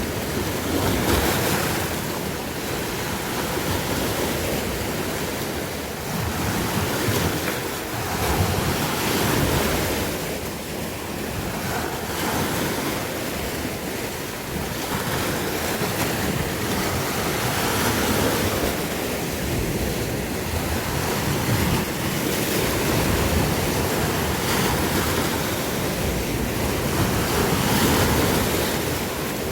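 Sea waves washing ashore in a continuous rush, swelling and easing every few seconds, with wind buffeting the microphone.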